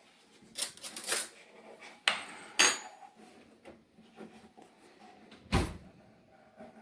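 A spoon knocking and scraping against a mixing bowl as shortening is scooped into flour: a handful of sharp knocks, spaced unevenly, with a heavier thud near the end.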